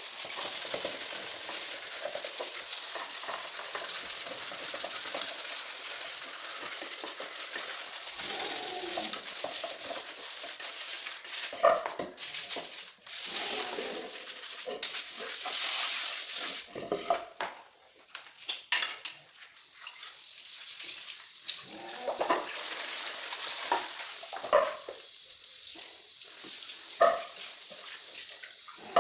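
Dry loofah being cleaned by hand: a steady crackling and rustling scrape with scattered sharp clicks, growing more broken and patchy in the second half.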